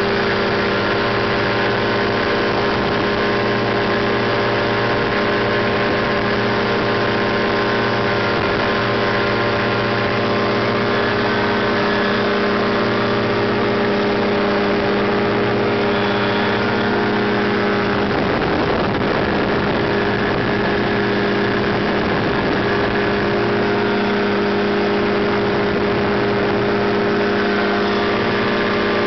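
Ultralight aircraft's engine and propeller running at a steady pitch, a loud drone of many even tones. About eighteen seconds in, a brief rush of noise breaks over it.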